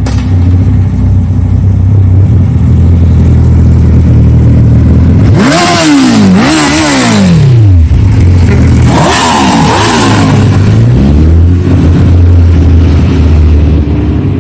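Motorcycle engine running steadily, revved up and back down twice about five seconds in and twice more about nine seconds in.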